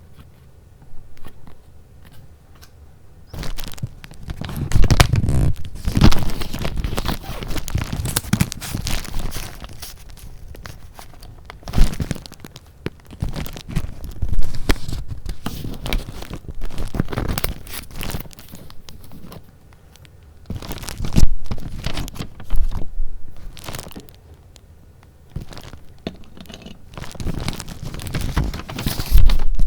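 Paper handled close to the microphone, rustling and crinkling continuously with louder swells as sheets are moved. The first few seconds hold only a few soft clicks.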